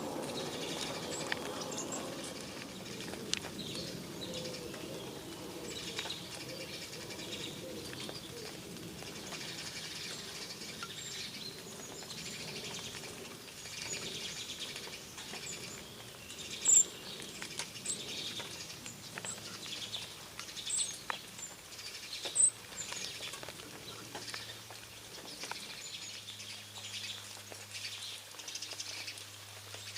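Songbirds chirping in many short, high calls, with two louder sharp chirps near the middle. A low steady hum comes in toward the end.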